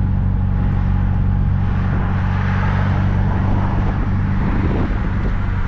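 Small open-top MG Midget's four-cylinder engine running at a steady pitch, with road and wind noise coming into the open cockpit.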